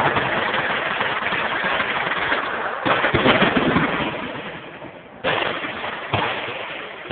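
Many machine guns firing at once along a shooting line, a continuous dense crackle of automatic fire. Sudden louder blasts come about three seconds in and again near five and six seconds, each dying away.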